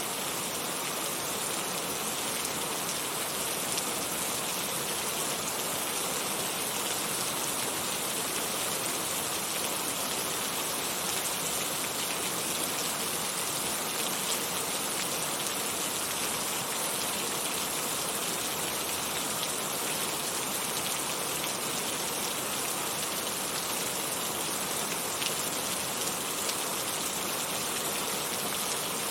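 Heavy rain falling steadily, a dense even hiss of drops on surfaces with a few sharper drop ticks.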